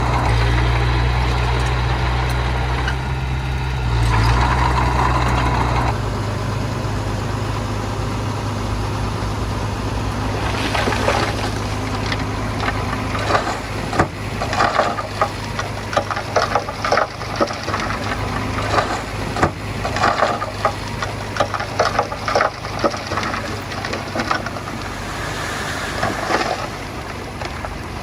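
Diesel engine of earth-moving machinery running steadily. It is loudest for the first six seconds, then drops to a lower hum. From about ten seconds in, irregular clattering knocks come over it.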